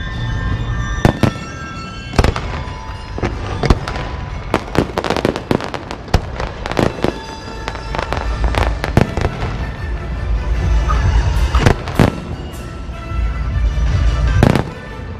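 Fireworks and firecrackers going off in a dense, irregular string of sharp bangs, with a low rumble beneath, while music plays underneath.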